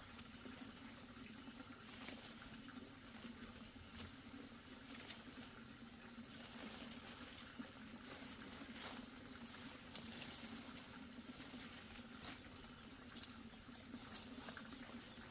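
Faint, scattered clicks and light rustling over a steady low hum.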